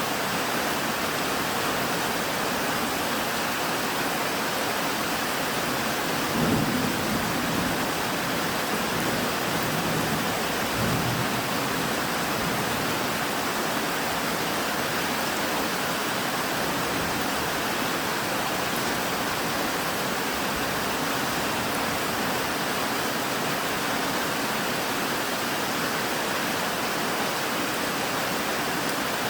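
Steady rain falling, with a low rumble of thunder about six seconds in that rolls on again briefly near eleven seconds.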